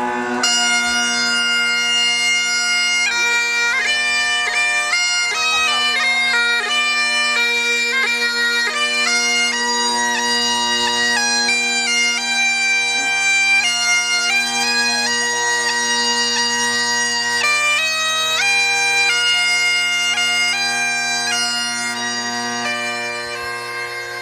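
Bagpipes playing a tune, the chanter moving from note to note over steady low drones, easing off slightly near the end.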